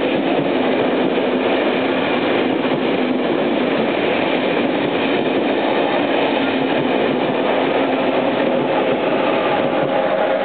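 Intercity through train running past the station platform: a steady, loud rumble of wheels on rails and passing coaches.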